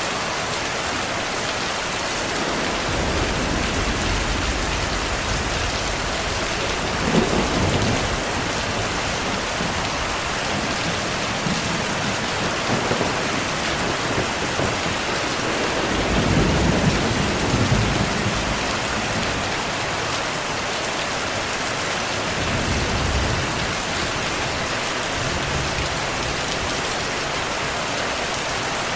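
Heavy rain falling steadily, with distant thunder rumbling low several times; the longest, strongest roll comes about halfway through.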